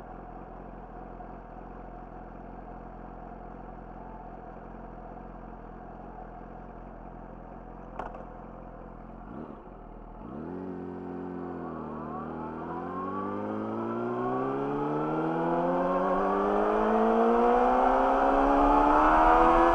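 Yamaha YZF-R6's inline-four with an Akrapovic slip-on exhaust idling steadily, a click about eight seconds in, then the bike pulls away and accelerates. The engine pitch rises, dips briefly once, then climbs steadily and grows louder toward the end.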